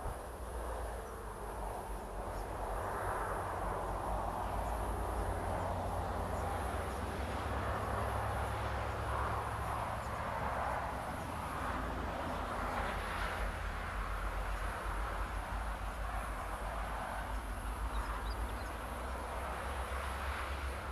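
Train running past with a steady low rumble and wheel noise, while insects chirp in a pulsing high buzz.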